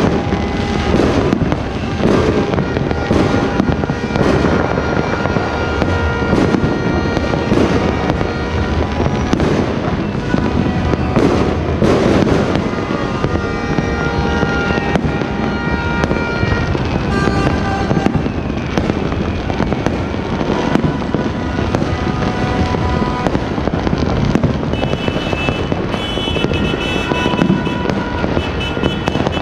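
Fireworks and firecrackers going off across the town, many overlapping bangs one after another, with music playing underneath.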